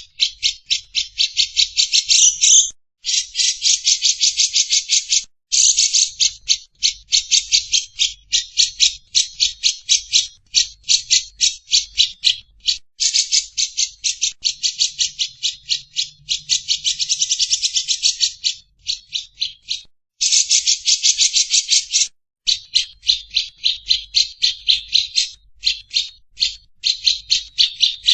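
Lovebird chattering: long runs of rapid, high, harsh notes repeated several times a second, broken by brief pauses.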